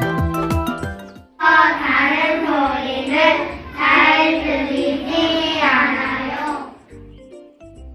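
A group of young children singing together, coming in suddenly after a second of bouncy instrumental music and breaking off abruptly about a second before the end, when quieter music carries on.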